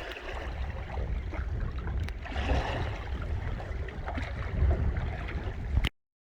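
Wind buffeting the microphone, with water sounds around a canoe out on a pond. The sound cuts off abruptly near the end.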